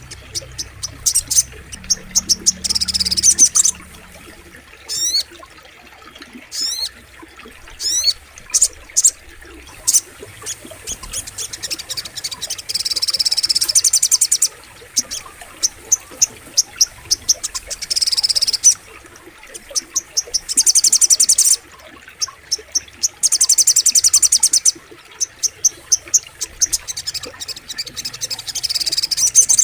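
Crimson sunbird (sogok ontong) song: loud, high-pitched rapid ticking trills that run into dense buzzy bursts lasting a second or two, repeated again and again, with a few quick sweeping notes in the first third.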